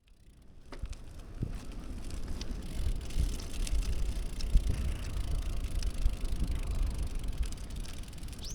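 Riding a Tern Crest minivelo bicycle: a steady low road rumble with scattered light clicks, fading in over the first second.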